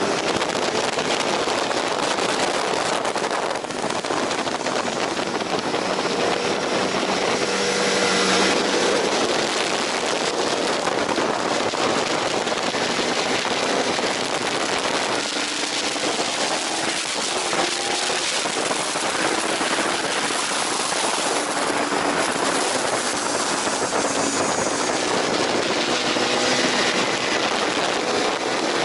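Aprilia RSV 1000 Factory's V-twin engine running hard on track, its pitch rising and falling as it revs through the gears, under a steady rush of noise.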